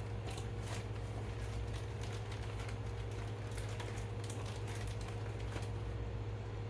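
Hands picking through and pulling apart partly frozen chicken meat, making small sticky clicks and crackles, over a steady low hum.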